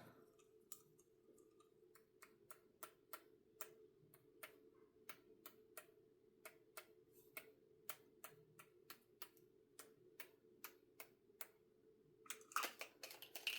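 Pump nozzle of a Distress Mica spray bottle being pressed over and over to splatter droplets, making a quiet, steady run of short clicks about two or three times a second. A louder stretch of noise comes near the end.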